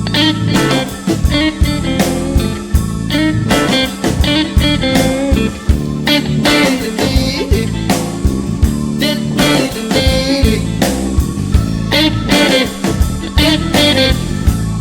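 Blues band instrumental break: a lead guitar plays a solo over bass and drums with a steady beat.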